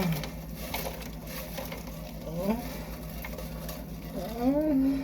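A person eating, with chewing and mouth noises. Two voiced hums of enjoyment: a short rising one about halfway and a louder rise-and-fall near the end. A steady low electrical hum runs underneath.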